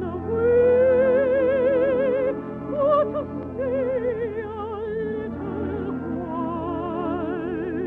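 Operatic singing with a wide, steady vibrato on long held notes over an orchestral accompaniment.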